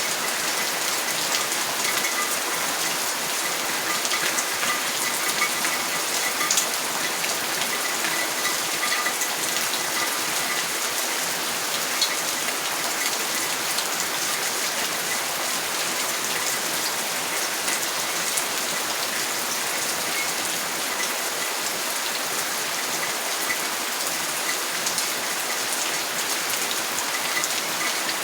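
Steady rain: an even hiss with many small drop taps scattered through it.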